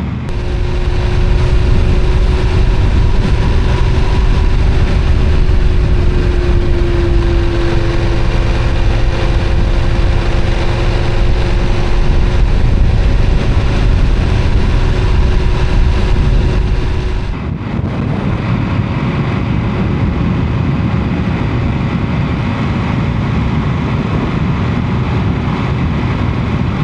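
Motorcycle riding at a steady speed: a continuous engine hum over low rumble and wind and road noise. About two-thirds of the way through the sound changes abruptly, the hum dropping out and leaving the rumble and wind.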